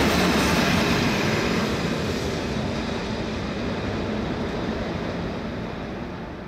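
Train running on the Semmering mountain railway, a steady rumble and rail noise that begins to die away about two seconds in as the train moves off into the distance.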